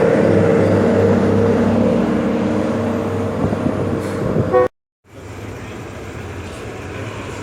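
KiHa 183 diesel railcar's horn sounding a long steady note over the low hum of its diesel engine, fading over a few seconds. A brief last toot comes just before the sound cuts off abruptly and is followed by a quieter, even background.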